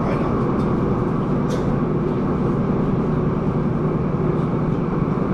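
Inside a KCR SP1900 electric multiple-unit train car while it runs: a steady, even running noise from the wheels, track and car.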